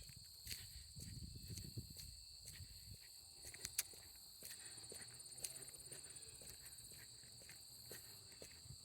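Crickets chirping in a steady, high, unbroken trill, with scattered footsteps on the trail and a low rumble during the first few seconds.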